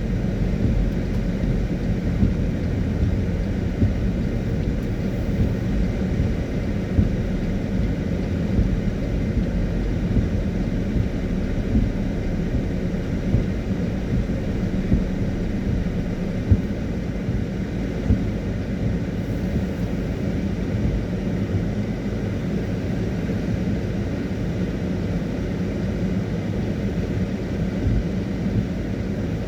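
Car driving on a wet road in the rain: a steady low rumble of engine and road noise with a hiss of wet tyres, and a few brief light knocks.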